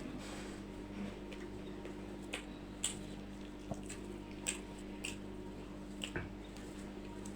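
Close-up eating sounds of fish curry: scattered short wet smacks and squishes, over a steady low hum.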